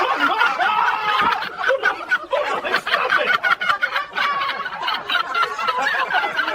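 People laughing hard and without pause, in short broken bursts.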